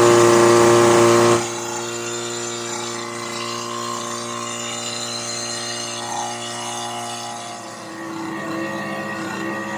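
Portable fire-pump engine running steadily. It is louder for about the first second and a half, then settles to a lower, even running note.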